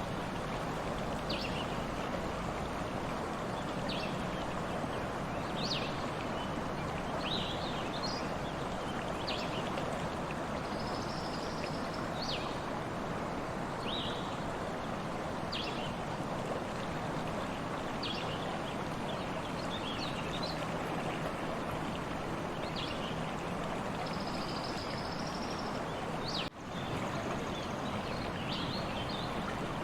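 Stream water running steadily, with birds giving short chirps every second or two and a couple of longer buzzy calls. The sound drops out for a split second near the end.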